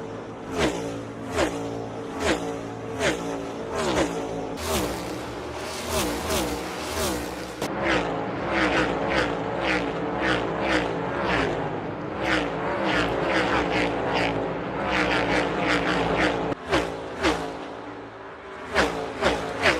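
NASCAR Next Gen stock cars' V8 engines at full throttle, passing one after another, each one's pitch dropping as it goes by.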